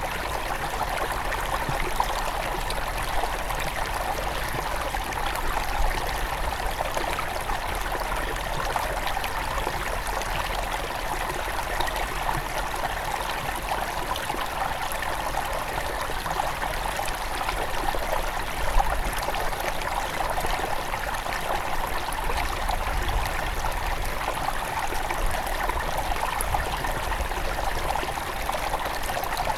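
Small mountain river flowing over stones, a steady rushing and burbling of water.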